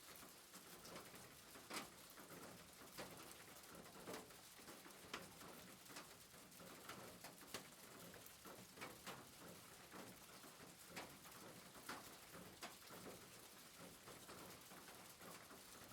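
Soft rain: a faint, steady hiss with irregular drops ticking through it.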